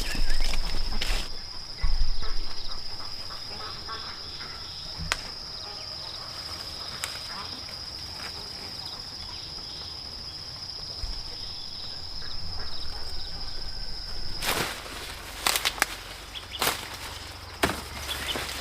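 An insect gives a steady high-pitched drone that stops abruptly about fourteen seconds in. Loud crackling rustles come near the start and again after the drone stops.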